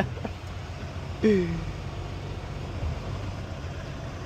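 Semi-truck's diesel engine running steadily at low revs, a low rumble heard from inside the cab.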